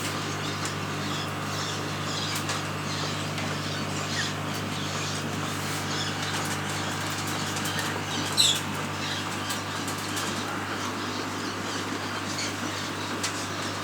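Pet lovebirds fluttering and rustling about, with scattered light clicks and one short, sharp high chirp about eight seconds in, over a steady low hum.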